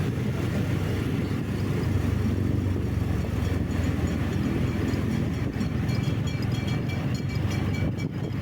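Steady low rumble of a vehicle on the move: engine and road noise. A faint high thin tone sounds over it in the second half.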